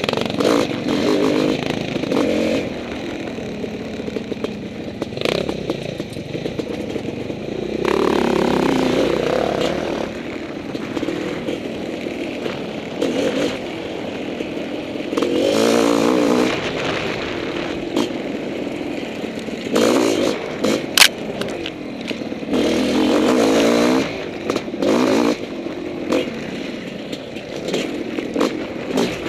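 Honda CR500 two-stroke single-cylinder dirt bike engine revving up and easing off over and over while riding a trail, with clattering and scraping of the bike over the ground. There is a sharp knock about two-thirds of the way through.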